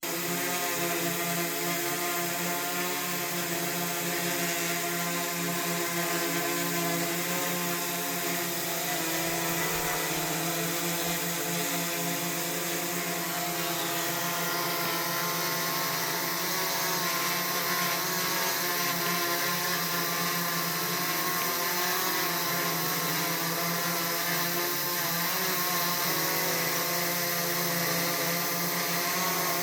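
DJI Mavic 3T quadcopter drone hovering, its propellers giving a steady buzzing whine of several held tones that waver slightly in pitch over a hiss.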